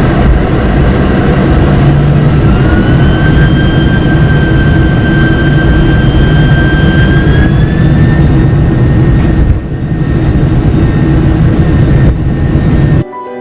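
Boeing 747 jet engines at high thrust heard from inside the cabin: a loud, steady roar with a high fan whine that rises in pitch about two and a half seconds in and again about seven seconds in, as on the takeoff roll. The roar dips briefly near the end.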